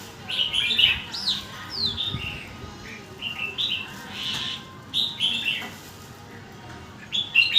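Red-whiskered bulbul singing: a quick run of short, bright whistled phrases one after another, with a brief pause shortly before the end.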